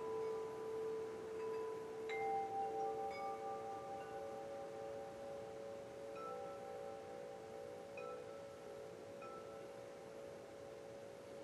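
Wind chimes ringing gently, several long overlapping tones that die away slowly while fresh strikes sound now and then, one clear strike about two seconds in.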